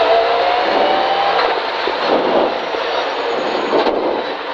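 Rally car engine heard from inside the cabin, running loud under full throttle in third gear, its revs climbing for about a second and a half. It is then lifted off and shifted down to second before the end.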